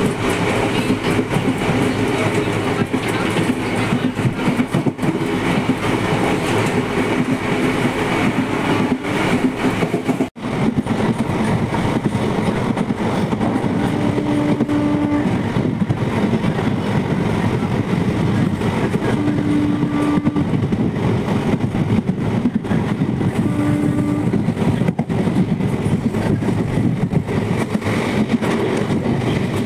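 Passenger train running along the track, heard from an open coach door: a steady rumble of wheels on rails with some clickety-clack. A short steady tone sounds three times in the second half.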